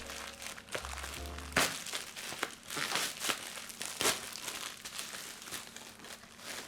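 Gift wrapping crinkling and rustling in her hands as a present is unwrapped, in many short crackles. Background music with low bass notes plays during the first second and a half.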